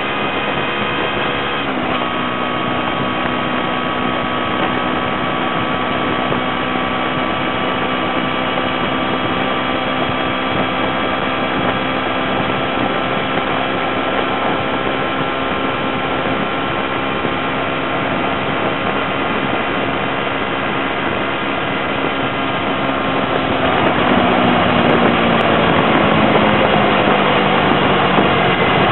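2008 Kawasaki Ninja 250R's parallel-twin engine running steadily at road speed, its note stepping in pitch about two seconds in. About 24 seconds in the sound grows louder with more rushing noise while the engine note slowly falls.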